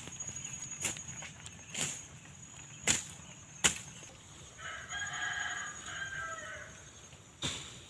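A rooster crows once about halfway through, a single call of about two seconds. It is preceded and followed by sharp short strikes, roughly one a second at first.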